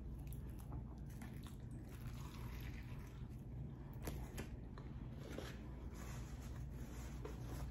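Close-miked chewing of a mouthful of cheeseburger: soft, wet, squishy mouth sounds with a few small crunches from the griddle-crisped cheese, over a faint steady low hum.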